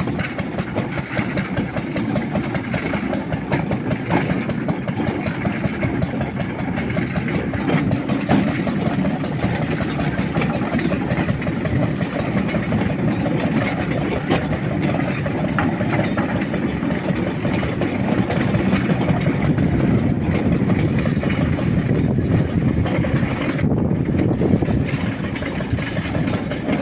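Lister D single-cylinder four-stroke engine on a small homemade locomotive, running steadily under load with a rapid, even chugging. It is working harder as the loaded loco begins to climb. The sound grows a little louder in the second half.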